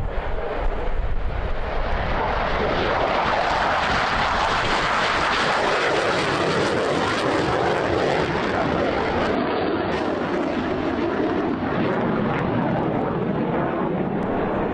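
MiG-23 jet fighter passing overhead, its jet engine giving a loud, steady rushing roar that swells toward the middle and eases slightly near the end.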